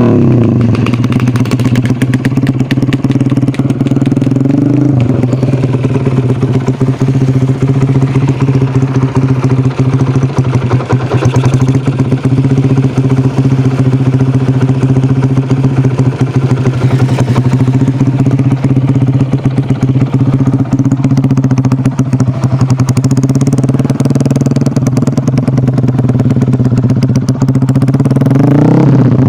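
Yamaha Jupiter Z four-stroke single-cylinder motorcycle engine running steadily at a fixed speed through a DYN aftermarket racing exhaust, loud, with an even pitch that barely changes.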